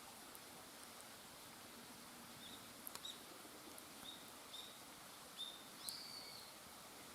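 Quiet fire of burning conifer wood with a few sharp crackles, and a handful of short high chirps between them.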